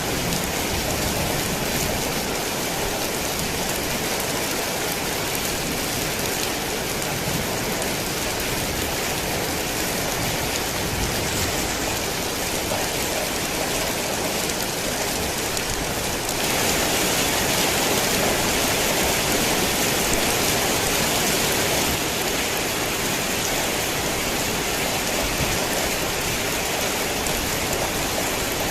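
Heavy rain falling steadily on surfaces, a dense even hiss that swells a little louder for several seconds past the middle before settling back.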